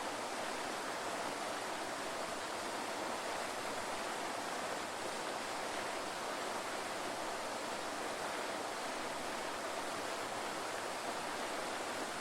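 Waterfall: falling water in a steady, unbroken rush with no changes.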